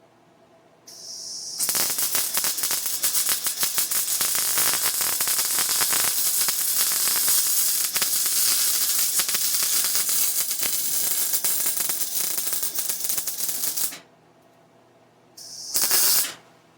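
MIG welder arc on 3/8-inch steel: a short hiss, then a steady dense crackle of the welding arc for about twelve seconds that stops abruptly. Near the end, another brief hiss and a short burst of arc.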